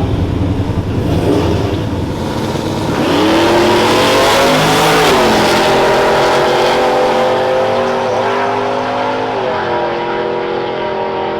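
Drag racing vehicle's engine: a low rumble, then about three seconds in it revs up hard and runs at high pitch, dipping briefly a few times. The engine is held high until it fades near the end.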